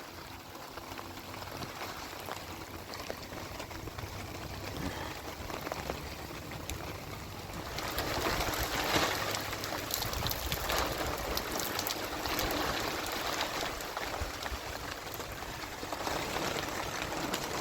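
Rain falling steadily, getting louder about eight seconds in, with many sharp drop hits through it.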